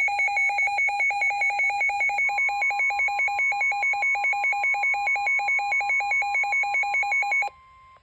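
Weather alert radio sounding its warning alarm for a severe thunderstorm warning: a loud, rapidly pulsing electronic beep, about eight pulses a second. About two seconds in, a steady tone near 1 kHz joins underneath, the broadcast's warning alert tone. The beeping cuts off suddenly just before the end.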